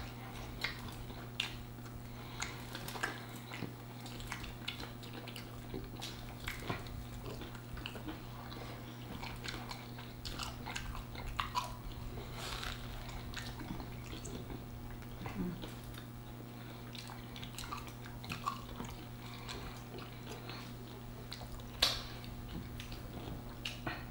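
Close-miked chewing and biting of fried chicken sandwiches by two people: irregular wet smacks and small crunches over a steady low hum, with one sharper click near the end.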